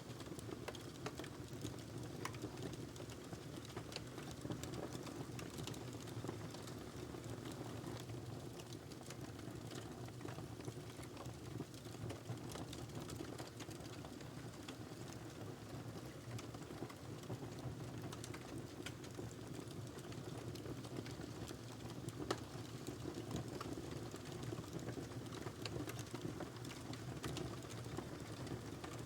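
Wood fire burning in a fireplace, crackling steadily with many small pops over a low rumble of flame, and one sharper pop a little past the middle.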